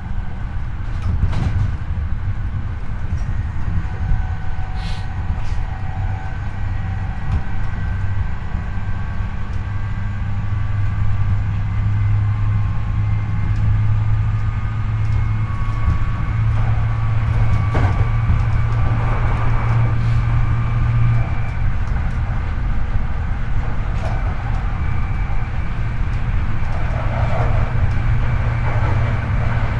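Hankyu 8300-series electric commuter train running at speed, heard from the car floor over a bogie that the uploader calls an abnormal-noise bogie: steady rumble of wheels on rail, a few rail-joint clicks, and faint whines from the Toyo IGBT-VVVF-driven induction motors and gears slowly rising in pitch. A low hum drops away about twenty seconds in.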